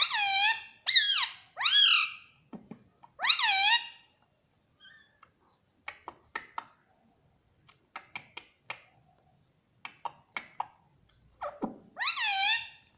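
Ring-necked parakeet calling: loud calls that arch up and down in pitch, four in the first four seconds and one more near the end, with soft clicks and short chirps between them.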